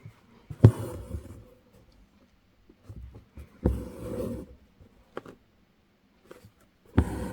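Embroidery needle tapping through the fabric, then the thread rasping as it is pulled through, three times, about three seconds apart, while attached chain stitches are worked.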